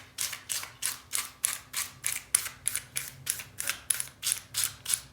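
Rapid back-and-forth scrubbing on a spray gun part to clear dried primer, about three short scratchy strokes a second in an even rhythm.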